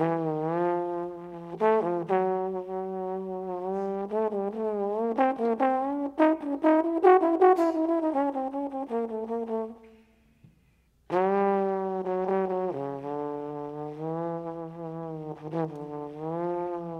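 A solo brass instrument playing improvised jazz phrases of long, wavering held notes. It breaks off for about a second midway, then starts again on a low note.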